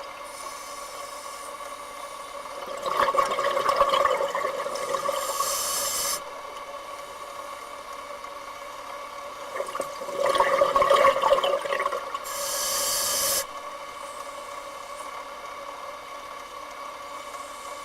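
Scuba diver breathing through a regulator underwater: two breaths, each a burst of bubbling followed by a sharp hiss of air that cuts off suddenly, over a steady hum.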